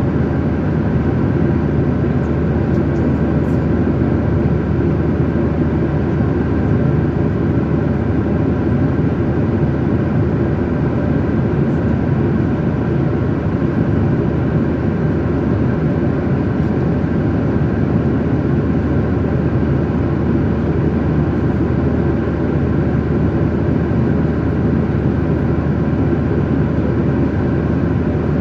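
Steady cabin noise of an airliner, the engines and rushing air heard from inside the passenger cabin.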